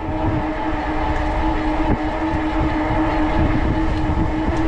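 E-bike rear hub motor whining at a steady pitch while riding at cruising speed, over a fluttering low rumble of wind on the microphone and tyres on the trail.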